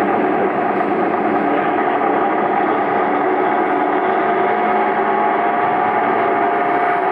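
Steady running noise inside a moving KiHa 47 diesel railcar: engine and wheels on the rails, with a faint tone rising near the end.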